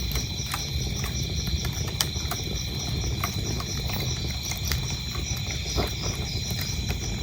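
Wood fire crackling with scattered sharp pops over a low rumble, while crickets chirp in a steady, even high rhythm.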